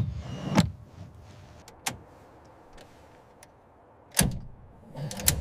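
Mechanical clicks in a P-51 Mustang's cockpit, then a loud clunk about four seconds in and a few more clicks near the end, as the cockpit is closed up and readied before engine start.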